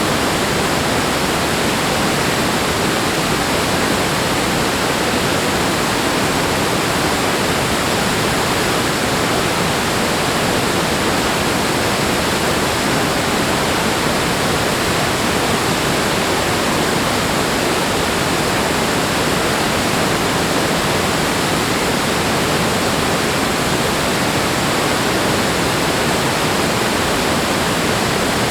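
Rushing water, a steady unbroken rush of noise that doesn't change.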